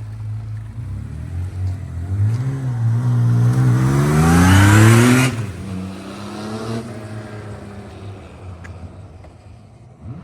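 Honda CBX1000Z's air-cooled inline-six engine, fitted with a non-original exhaust, idling, then revved once: the pitch climbs over about three seconds and drops sharply back to idle.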